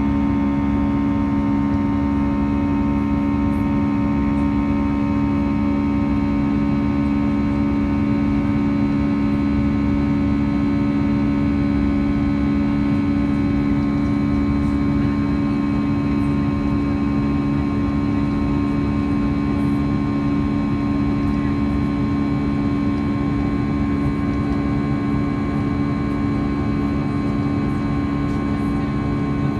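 Steady, loud drone inside an Airbus A320 passenger cabin: the jet engines and cabin air systems making an even hum with two strong low tones, over a rumble and a hiss, with no change in pitch or level.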